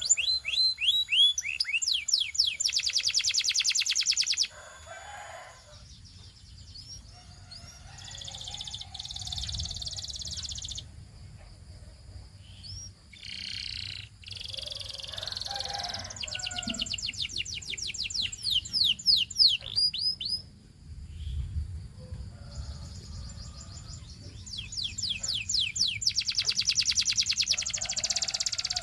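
Domestic canary singing: fast trills of rapidly repeated notes and quick downward-sweeping whistles, in loud phrases near the start, in the middle and near the end, with quieter, scattered notes in between.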